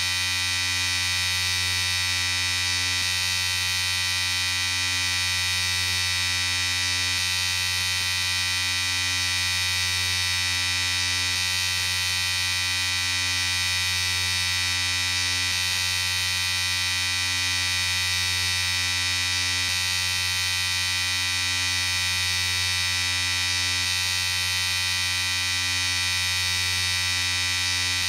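Electric shaver running steadily: a continuous buzz with an even level throughout.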